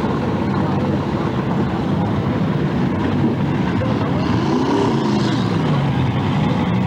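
Several demolition derby car engines running together in a continuous loud din, with one engine revving up and back down about four to five seconds in.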